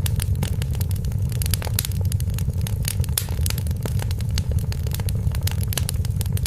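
Wood fire burning in a fireplace: a steady low rumble with many sharp, irregular crackles and pops.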